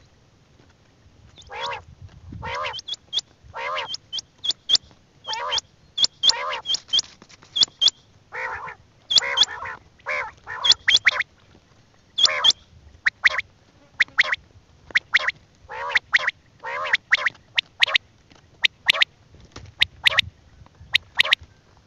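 Birds calling: a rapid run of short harsh calls, several a second, each topped by a sharp high note, starting about a second and a half in.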